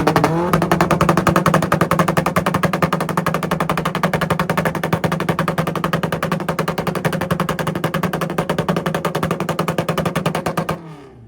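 Honda engine revved up and held on a two-step launch-control rev limiter: a steady buzzing tone with a very fast, continuous string of exhaust pops and bangs, machine-gun-like, that cuts off suddenly near the end.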